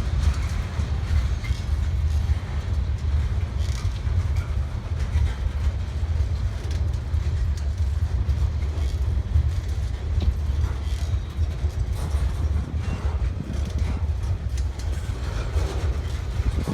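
Freight train rolling past: a steady low rumble of wheels and cars on the rails, with scattered clicks.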